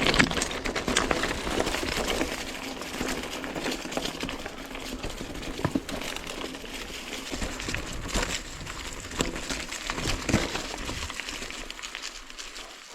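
Mountain bike rolling over a stony forest road: tyres crunching on loose rock with many short knocks and rattles, getting quieter toward the end.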